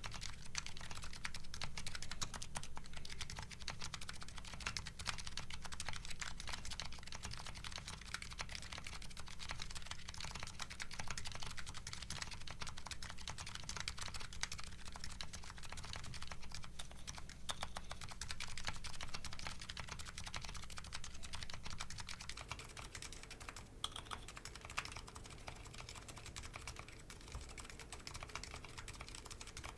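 Continuous fast typing on a Nuxros Kraze custom mechanical keyboard fitted with MetaKeebs MetaPulse electro-capacitive switches and DCS Sleeper keycaps: a dense run of key clacks. About two-thirds of the way through the tone changes and gets a little quieter as the recording switches microphones.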